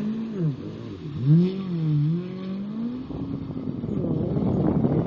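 Jet ski engine running, its pitch rising and falling as the throttle is worked. About three seconds in it turns into a rougher, noisier rush.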